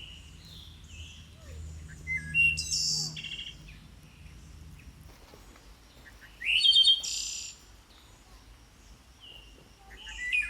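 Wild birds calling and chirping in forest, with two louder bouts of calls, one about two and a half seconds in and one about seven seconds in.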